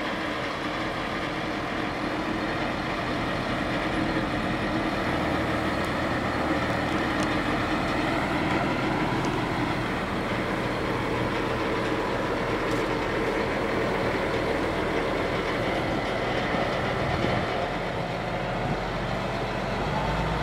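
A crane's engine running steadily at a constant speed, a heavy truck-like drone with no break.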